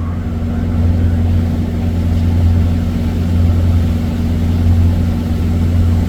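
Diesel engine of a 46-ton quarry rock truck running with a steady low drone.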